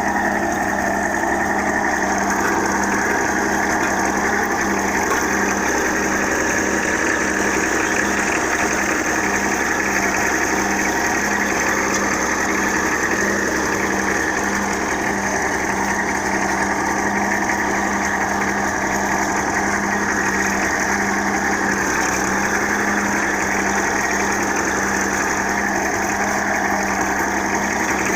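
Ebro farm tractor's engine running at a constant speed with a steady drone, pulling a 16-disc harrow.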